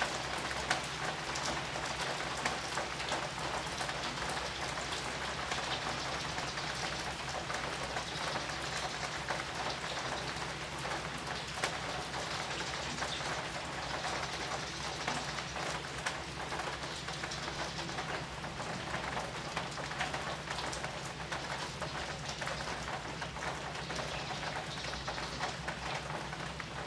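Heavy rain falling steadily on leaves and soil, a dense, even hiss dotted with countless small drop ticks.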